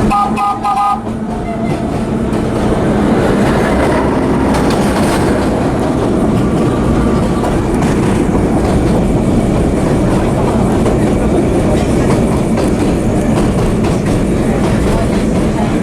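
Vintage subway train running on the rails, a continuous loud rumble and wheel clatter, with a short horn blast near the start.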